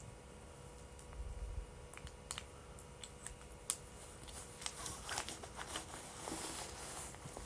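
Wood bonfire crackling: irregular sharp pops and snaps from the burning wood, sparse at first and coming thicker after about a second, over a faint hiss of the flames.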